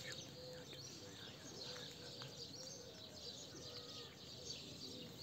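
Birds chirping faintly over a low outdoor background hum, with many short high chirps scattered throughout.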